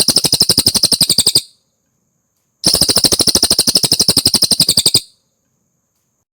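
Cililin songbird singing two fast, loud trills, each a rapid run of more than a dozen evenly repeated high notes a second. The first trill breaks off about a second and a half in; the second starts a second later and lasts about two and a half seconds.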